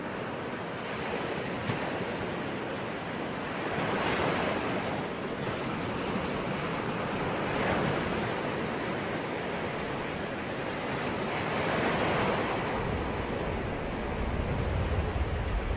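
Ocean waves washing onto the shore, swelling and falling back roughly every four seconds. A deep low rumble builds near the end.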